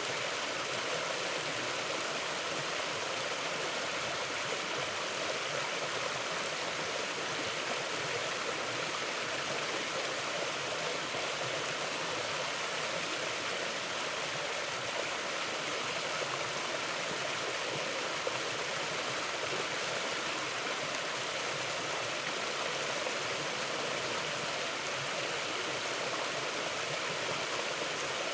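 Steady rushing of a forest stream, an even watery hiss with no breaks or surges.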